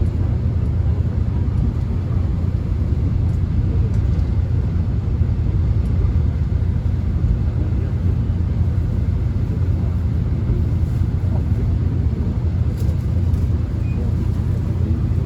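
Steady low rumble of a subway train running, heard from inside the passenger car, with a few faint high clicks or squeaks near the end.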